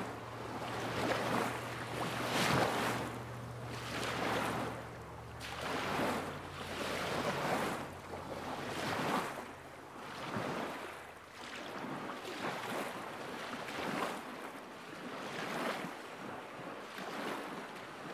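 Small lake waves lapping against the shore in a steady series of washes, about one every second or so. A faint low hum sounds underneath and stops about a third of the way through.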